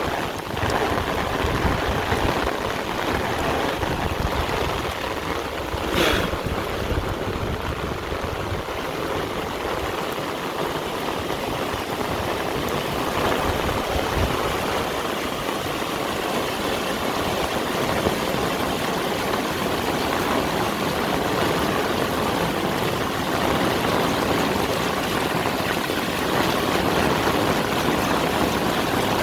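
Heavy rain pouring steadily, with a brief sharp sound about six seconds in.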